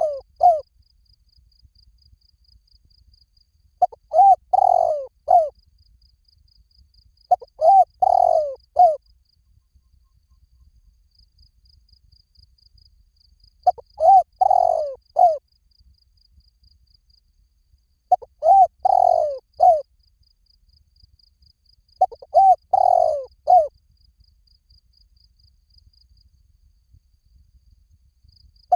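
Spotted dove cooing: a three-part phrase, a short note, a longer rolling middle note and a short final note, repeated five times with pauses of a few seconds between.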